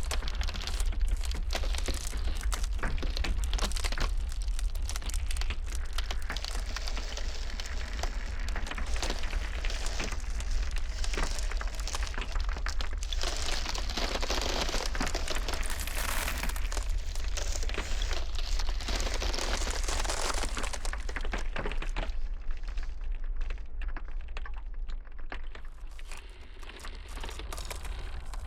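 Ice cracking in a blizzard: many sharp cracks and crackles over a steady low rumble and a wind hiss. The hiss swells in the middle and drops away near the end.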